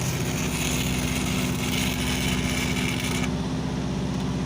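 Welding arc hissing and crackling during a lap weld on a large steel pipe, over a steadily running engine. The arc hiss cuts off abruptly a little over three seconds in, while the engine keeps running.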